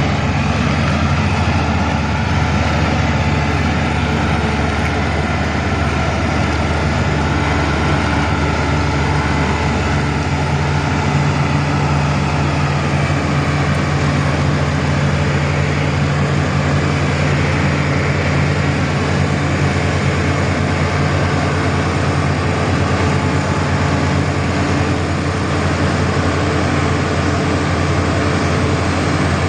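Excavator carrying a hydraulic vibro hammer, running steadily with a deep, even hum.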